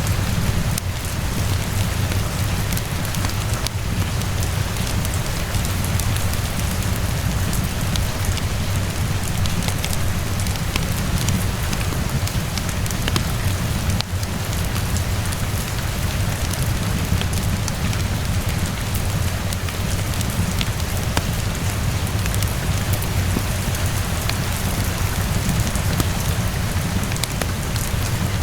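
Steady rainfall pattering on surfaces with a low rumble underneath, mixed with the scattered pops and crackles of a wood fire.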